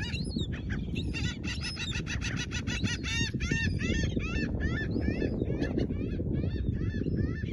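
American oystercatcher giving a long run of loud piping calls, each a sharp down-hooked note. The calls come very fast at first, then settle to about three or four a second, over a steady low rumble.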